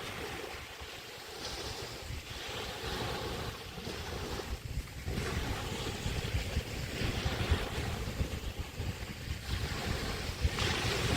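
Small Chesapeake Bay waves washing onto the beach in repeated swells a couple of seconds apart, with wind rumbling on the microphone that grows stronger in the second half.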